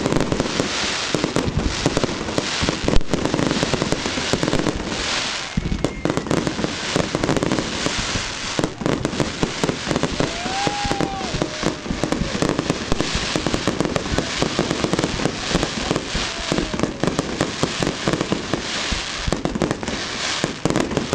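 Fireworks going off in a dense, continuous barrage of crackling and popping, with a louder bang about three seconds in.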